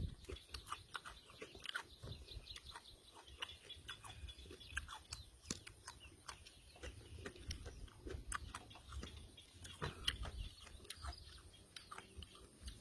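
A person chewing raw fish and papaya salad close to the microphone: many irregular short clicks and smacks of the mouth, over a low rumble.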